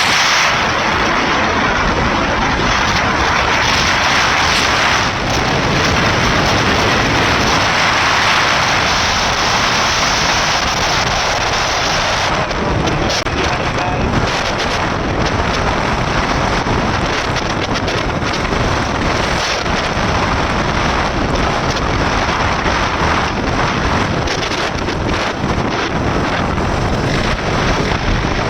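Wind rushing over the microphone of a KTM RC 390 motorcycle being ridden at speed, with the bike's engine and road noise running underneath, steady throughout.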